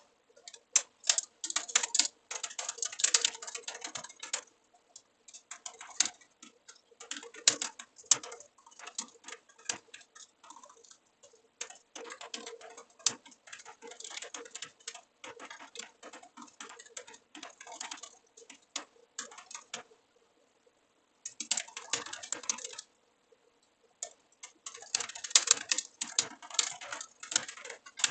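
Computer keyboard typing in quick runs of key clicks, with short pauses between bursts.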